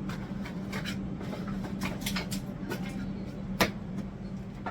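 Items being handled and set into a kitchen cupboard: scattered knocks and clicks, the sharpest one about three and a half seconds in, over a steady low hum.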